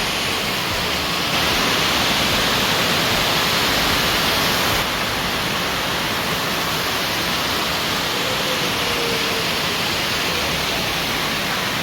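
Waterfall: a steady, dense rush of falling water, stepping slightly louder about a second in and back down near five seconds in.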